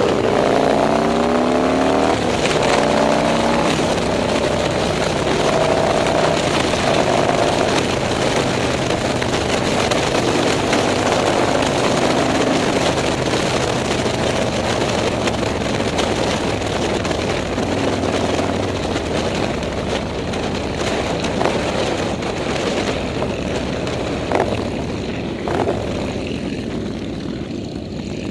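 Motorcycle engines running in a group ride, their pitch gliding in the first few seconds as bikes pass, then settling into a steady engine and road rumble. Two short knocks near the end.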